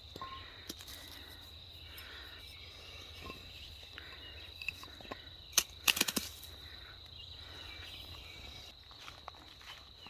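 A steady high-pitched insect chorus drones throughout, with faint bird chirps here and there. A few sharp clicks or knocks cut across it, the loudest a little past halfway.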